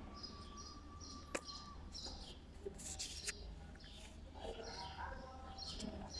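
Faint chirping of small birds: short high chirps repeated all through, with one sharp click about a second in.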